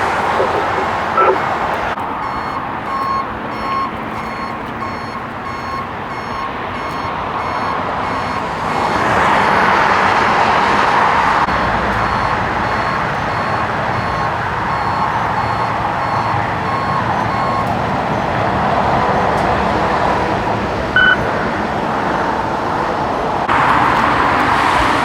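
Reversing alarm on a vehicle beeping in a steady, evenly spaced series over the running of vehicle engines and traffic, with a brief higher chirp near the end.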